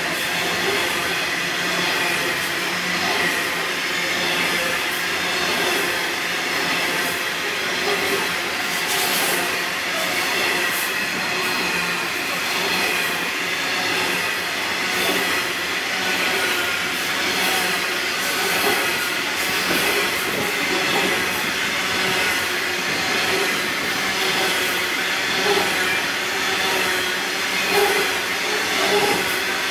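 Coal wagons of a long freight train rolling past, steel wheels running on the rails with a steady high-pitched squeal and scattered clicks.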